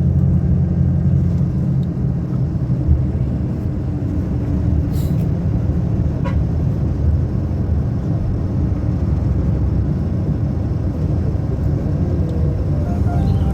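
Steady low rumble of a motor vehicle driving, engine and road noise running evenly.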